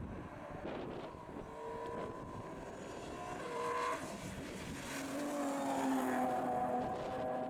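Rally car engine approaching on a stage, its pitch rising under acceleration and dropping at a gear change about four seconds in, then pulling again and growing louder toward the end. Wind buffets the microphone.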